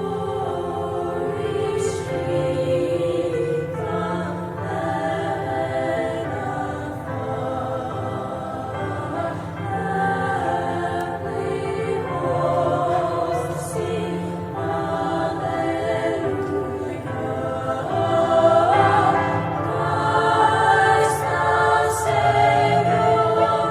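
A choir singing in parts, with notes held and sibilant consonants now and then.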